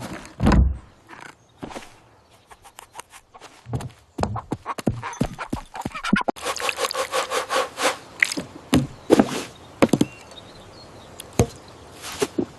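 Cartoon sound effects: a run of short knocks and taps with some rubbing, coming thick and fast in the middle of the stretch.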